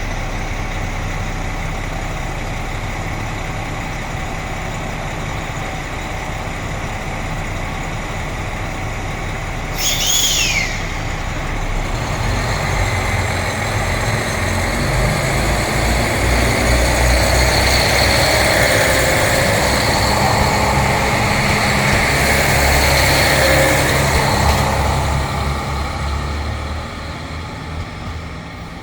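Diesel train engine running steadily at the station, with a brief high tone falling in pitch about ten seconds in. The engine noise then grows louder as the train moves through, with a steady high-pitched ring over it, and dies away near the end.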